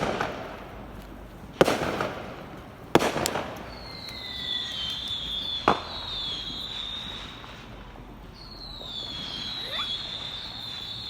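Fireworks going off: three sharp bangs about a second and a half apart in the first three seconds, then a smaller crack. A high, wavering whistle, falling slightly in pitch, runs for about three seconds, breaks off, and comes back near the end.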